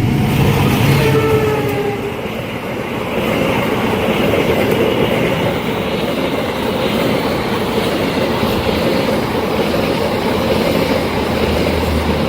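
Train passing at speed, a steady loud rumble of wheels on rails. Faint, slightly falling horn tones sound in the first second or two.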